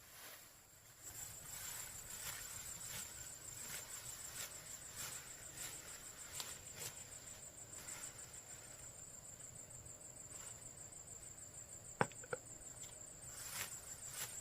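An insect trilling steadily in a fast, high-pitched pulse, over a quiet rural background. Soft brushing or cutting strokes recur irregularly throughout, and a sharp double click comes near the end.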